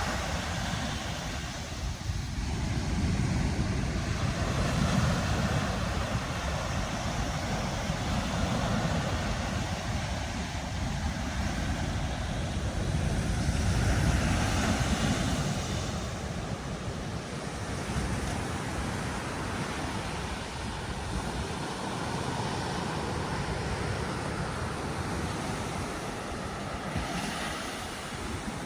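Ocean surf washing onto a beach: a continuous rushing of breaking waves that swells louder every few seconds and then eases.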